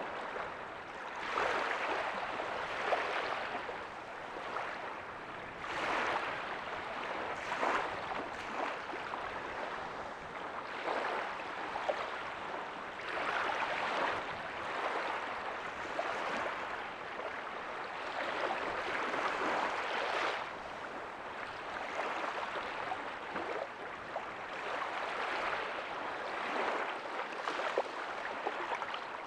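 Ocean waves breaking softly on a beach, a continuous wash of surf that swells and falls back every few seconds.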